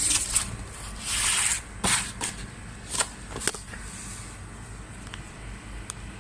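Rustling and scraping with several sharp clicks, the loudest rustle about a second in.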